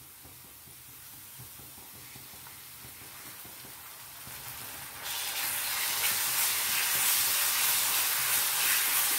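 Chopped onions and ginger-garlic paste frying in oil on an iron tawa: a faint sizzle that turns suddenly into a loud, steady sizzle about five seconds in, as the mixture is stirred with a spatula.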